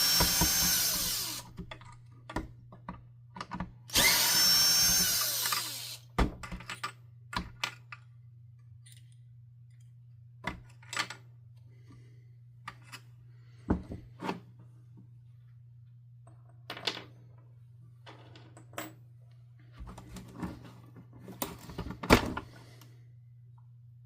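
Cordless drill-driver running twice, about two seconds each time, with a whine that glides in pitch as it backs out screws from the vacuum's power nozzle housing. Then scattered light clicks and knocks of plastic parts being handled.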